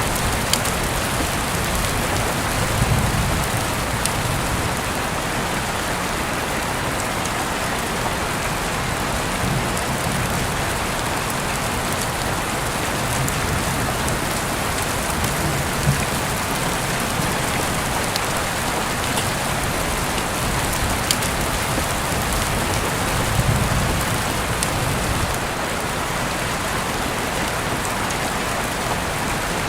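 Heavy rain falling steadily, with a few sharp drops striking close by and two brief low rumbles, one a few seconds in and one about three-quarters of the way through.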